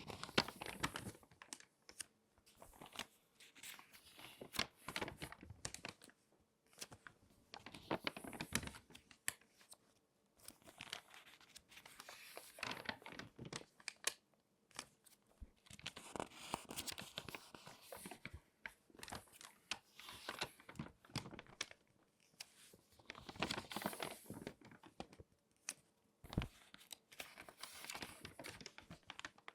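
Glossy magazine pages being folded and handled close up, crinkling and crackling in repeated waves with short pauses between.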